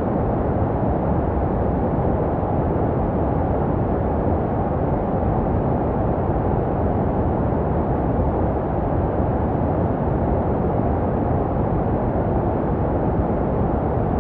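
Steady baby-sleep white noise: an unbroken, deep, muffled rushing with most of its weight in the low end and little hiss on top. It is made to resemble the sounds a baby hears inside the womb.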